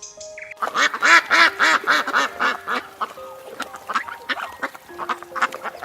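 An animal giving a rapid series of short, pitched calls, about four a second, thinning out in the second half, over soft background music.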